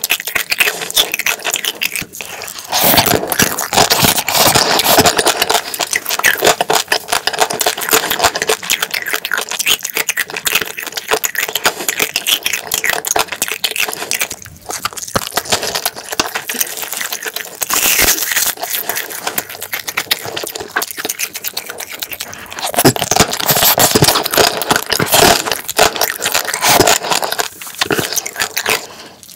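Close-miked wet chewing and mouth sounds of a person eating spicy marinated crab with fried rice: a dense run of small clicks and smacks, with two louder stretches.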